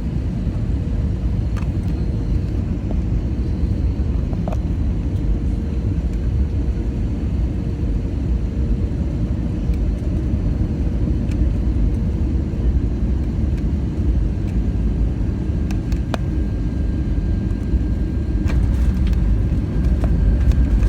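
Airliner cabin noise inside an Airbus A320neo: a steady low rumble of engines and airflow, with a faint steady hum that fades out about two-thirds of the way through.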